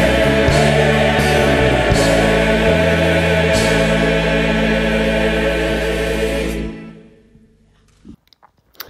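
A gospel vocal group and band closing a song: the singers hold the final word over a long sustained chord as the bass moves beneath, and the music stops about seven seconds in.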